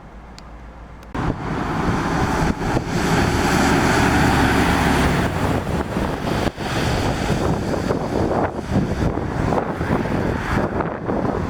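Lorry traffic passing on a wet road: engine noise and tyre hiss on wet tarmac, with wind buffeting the microphone. The sound starts abruptly about a second in and is loudest a few seconds later.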